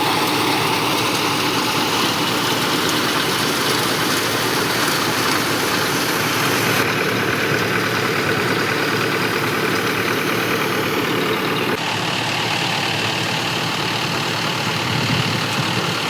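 Mahindra 475 tractor's diesel engine running steadily while driving a Dipak thresher, a dense, continuous machine noise. The sound changes abruptly twice, about seven and twelve seconds in.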